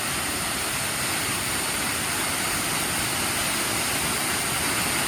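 Majestic Falls waterfall on McDowell Creek pouring steadily: an even, unbroken rushing noise.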